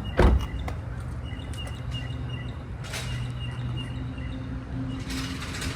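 Outdoor background at a gas station: a steady low hum with faint, repeated bird chirps, and one loud thump about a quarter second in.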